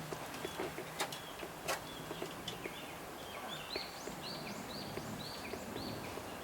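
Young Japanese bush warbler singing: a quick run of about ten short, repeated high notes starting about halfway in. Before it, two sharp clicks, about one and one and a half seconds in.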